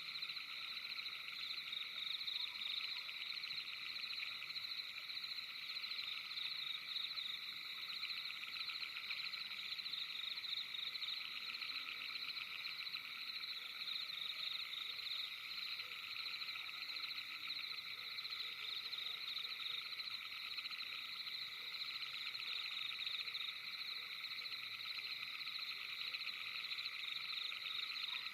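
Steady night-time chorus of calling frogs: many dense, rapidly pulsing trills overlapping in a few high pitch bands, with no break.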